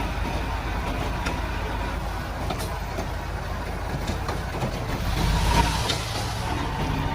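Komatsu D31-P bulldozer's diesel engine running steadily, with a few scattered clanks, and louder for a moment about five seconds in.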